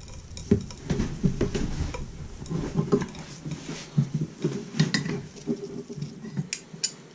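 Hot brass shower valve, just sweated, sitting in a bucket of snow: scattered faint crackles and small clicks as the snow melts and shifts around the metal and it settles down in.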